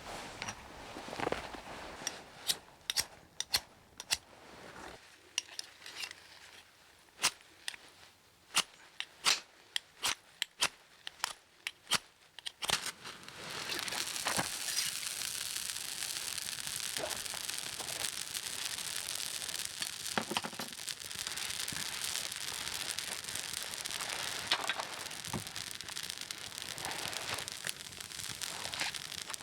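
Campfire being lit: a run of sharp, irregular snaps and cracks, then about halfway a steady hiss sets in and continues with occasional crackles.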